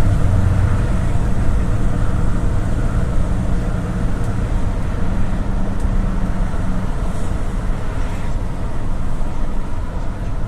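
GAZelle City minibus under way, heard from inside: the engine runs with steady road and tyre noise, and its low hum eases off about seven seconds in.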